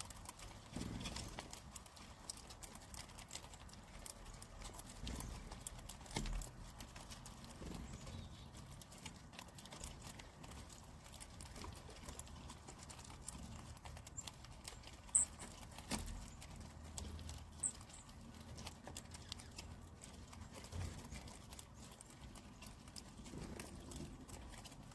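Faint outdoor ambience: scattered soft clicks and taps over a low rumble, with a couple of brief high bird chirps in the middle.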